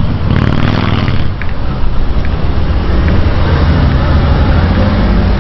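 Car engines running with a loud, steady low rumble.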